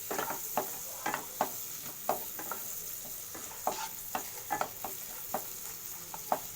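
Spring onions and whole spices frying in butter in a wide pan: a steady sizzle, with irregular clicks and scrapes of a spatula stirring against the pan, two or three a second.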